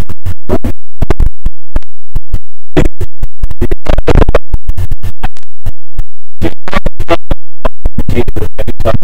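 Badly glitching, overdriven audio that is loud to the point of clipping and chops in and out many times a second, leaving only scraps of sound between sudden dropouts.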